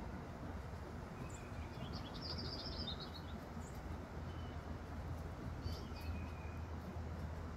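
A small bird chirping: a quick run of high chirps about two seconds in, then a short call near six seconds, over a steady low hum.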